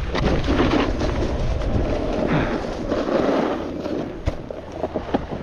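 Snowboard sliding and scraping over snow, with wind on the microphone; a sharp knock a little after four seconds in.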